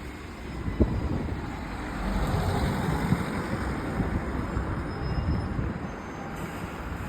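Strong wind buffeting the microphone: a rough, gusting low rumble with a rushing hiss above it, and a single short tick about a second in.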